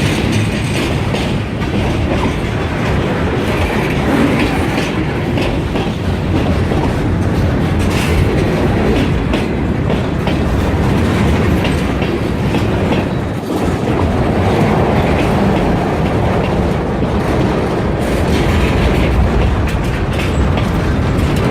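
Loud freight train rolling past, its car wheels clattering steadily over the rail joints.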